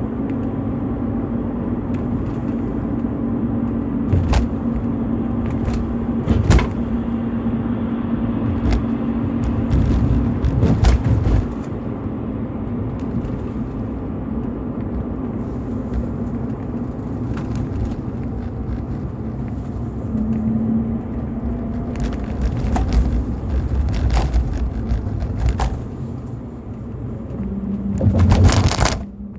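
BMW E46 320i's M52TU B20 2.0-litre inline-six running with a steady drone over a low rumble, its pitch shifting slightly a couple of times. Scattered sharp knocks and clicks come through on top.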